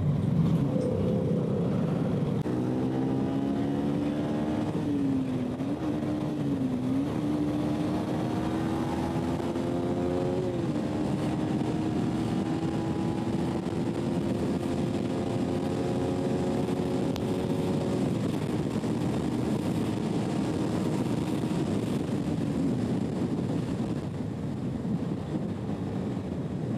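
Yamaha MT-15's 155 cc single-cylinder engine pulling at high speed on a run toward top speed, under heavy wind rush on the microphone. The engine note climbs, wavers a few seconds in, steps up about ten seconds in, holds high and slowly rising, then sinks into the wind noise near the end.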